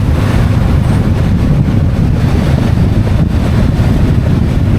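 Steady, loud wind rush over the microphone of a moving motorcycle, with the motorcycle's running drone underneath.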